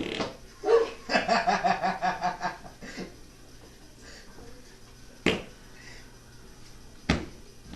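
A person laughing in quick pulsing bursts for a couple of seconds, then two short, sharp sounds a couple of seconds apart later on.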